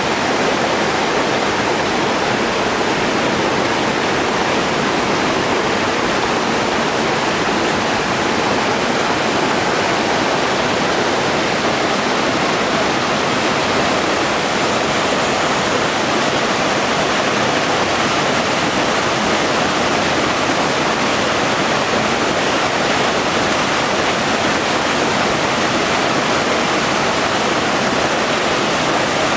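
Small mountain stream and small waterfall, water rushing and splashing steadily.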